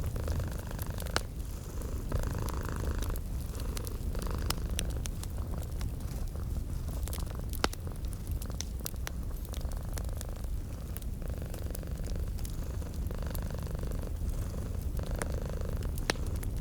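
Domestic cat purring steadily, its breaths swelling in and out every second or two, over a wood fire crackling with scattered sharp pops.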